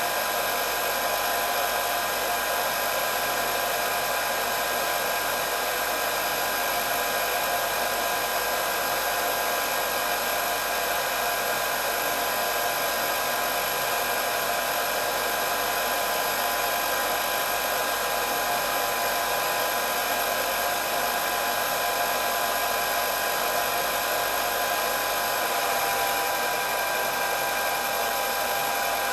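Hair dryer running steadily: an even rush of blown air with a constant whine from its motor and fan.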